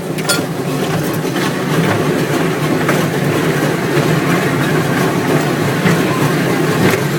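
Amusement-park kiddie train ride running along its track: a steady rumble of the cars, with a few clicks about a second in.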